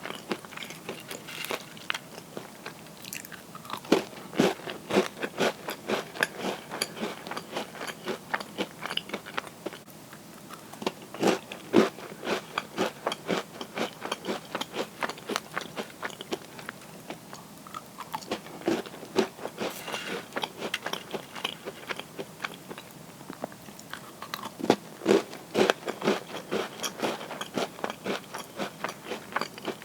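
Close-up crunching and chewing of crisp butter cookies, sharp irregular crackles in bursts with short pauses between bites.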